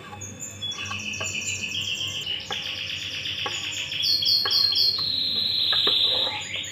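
A songbird chirping and trilling in fast runs of repeated high notes, with a few sharp knife taps on a wooden cutting board as tofu is sliced.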